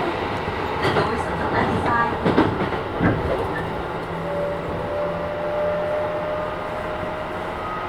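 Running sound inside a Keisei 3000-series electric train with Toyo IGBT-VVVF traction: wheels knock over rail joints in the first few seconds. About four seconds in, the inverter's steady whine of tones joins the rumble.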